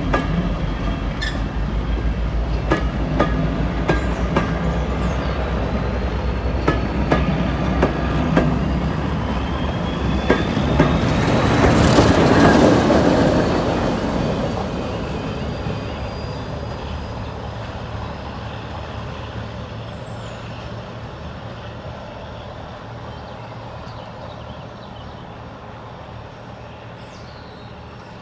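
Heritage passenger coaches rolling past, their wheels clicking over the rail joints. The Class 14 diesel-hydraulic locomotive on the rear then passes loudest at about twelve seconds with its engine running and a thin high whine rising, and the sound fades steadily as the train draws away.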